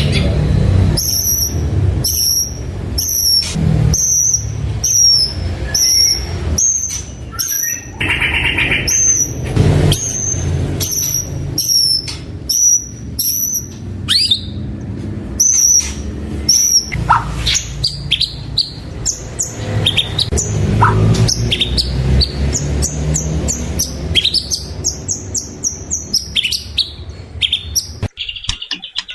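White-rumped shama singing: a long run of the same clear, hooked whistle repeated a little more than once a second, then varied sliding and falling notes from about halfway through, over a steady low rumble.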